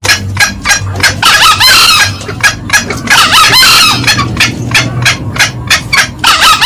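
Green junglefowl calling: a fast run of short, sharp cackling notes, with two longer, fuller calls of bending pitch about a second in and about three seconds in.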